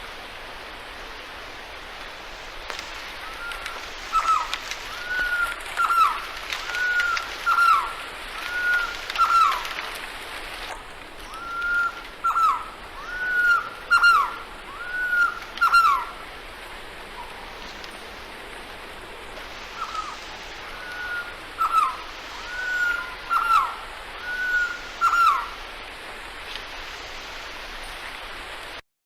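A bird singing loud whistled notes, each a short level whistle that drops sharply in pitch, repeated about one to two a second in three bouts of five or six notes, over a steady background hiss. The sound cuts off suddenly near the end.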